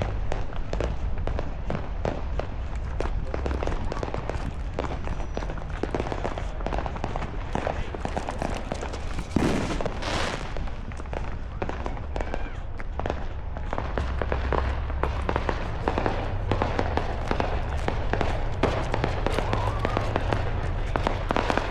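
Fireworks and firecrackers crackling and popping in a dense, continuous scatter over a steady low rumble, with one louder burst about nine to ten seconds in.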